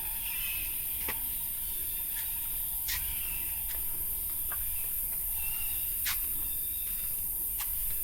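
Steady high-pitched drone of jungle insects such as cicadas, with a walker's footsteps clicking on stone at irregular intervals and faint bird chirps.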